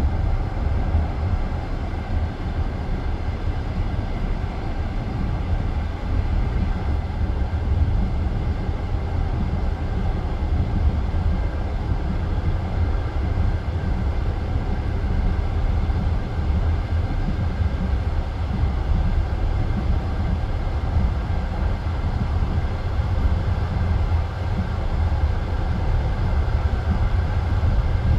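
Passenger train carriage running along the track: a steady rumble of wheels on rails, heard from inside the carriage.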